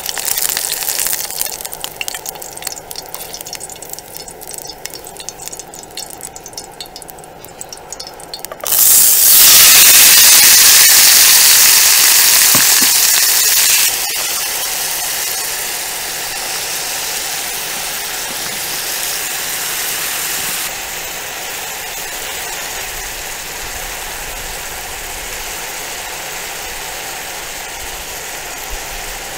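Food frying in hot oil, crackling and spitting. About nine seconds in comes a sudden loud burst of sizzling, which eases off into a steady sizzle.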